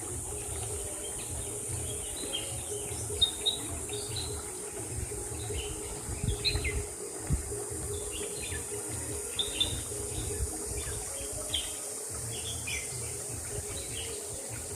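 Birds chirping: many short, separate chirps coming irregularly, over a steady high-pitched hiss and a low rumble.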